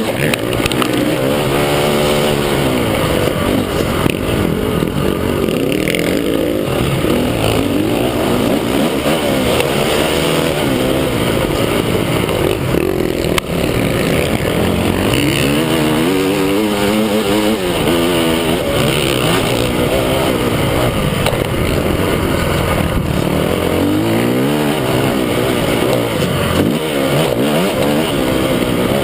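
Motocross bike engines revving on the track, their pitch climbing and dropping again and again as the riders open the throttle and shift.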